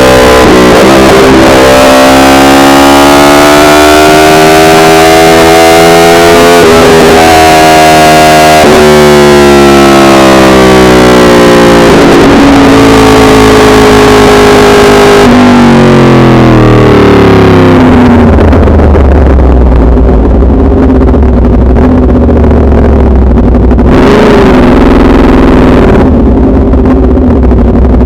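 Yamaha R1's inline-four engine and exhaust, recorded so hot that it clips: the revs climb, drop at a shift and climb again in the first nine seconds or so. Then they fall away in steps as the bike slows, settling into a low rumble for the last ten seconds.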